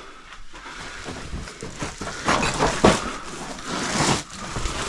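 A person crawling through a tight cave passage: irregular scuffs and scrapes of body and gear against rock, loudest a little past two seconds in and again near four seconds.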